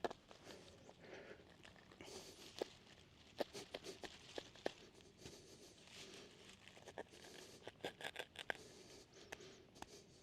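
Faint rustling of a ripstop nylon tarp, with scattered sharp clicks and taps as its corners are pegged out on rocky ground.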